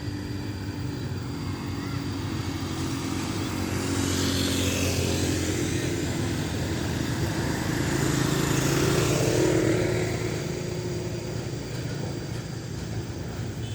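Steady engine drone with motor vehicles passing, swelling twice, about four seconds in and again around nine seconds.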